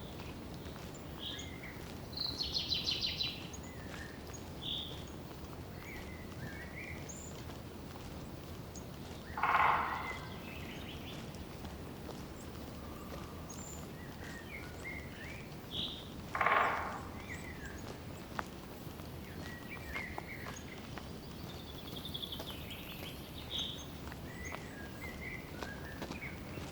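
Forest birds calling over a steady low hush: a rapid high trill about two seconds in, scattered short high chirps, and two louder, longer calls about seven seconds apart. Light footsteps on the trail tick faintly throughout.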